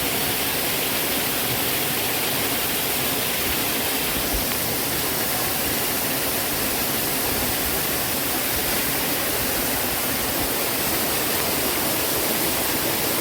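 Snowmelt-fed mountain waterfall rushing steadily: a dense, even hiss of falling water.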